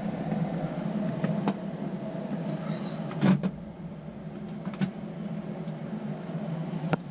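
Air-conditioning unit running with a steady hum, freshly repaired and back in operation. A few short clicks and knocks of work on its cover and screws sound over it, the loudest about three seconds in.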